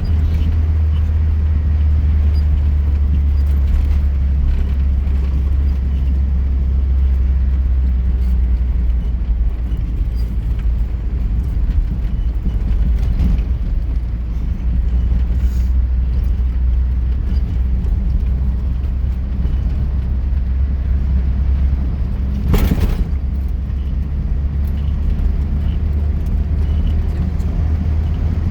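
Off-road vehicle driving over rough ground: a steady low rumble of engine and tyres, with a sharp knock about 23 seconds in.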